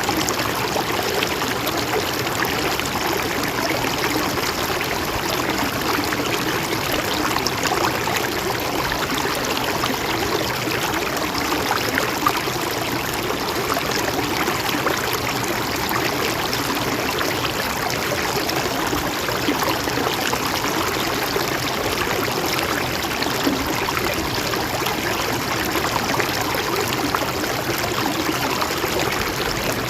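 Mountain stream running in a steady, even rush, with small trickles and splashes flecked through it.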